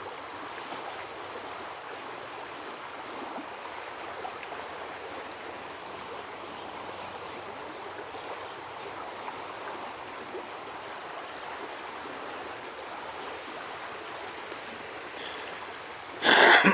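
River water flowing steadily, an even rushing noise. Near the end a short loud burst cuts in.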